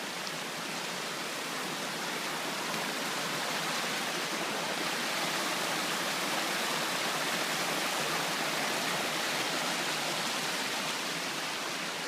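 A rushing river running fast over rocks: a steady, full hiss of water that swells a little in the middle.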